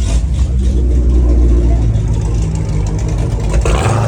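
Car engines running with a deep exhaust rumble, and a short burst of hissing noise near the end.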